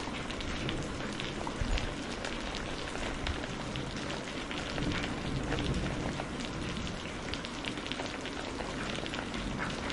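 Steady heavy rain, with many separate drops hitting close by over an even hiss.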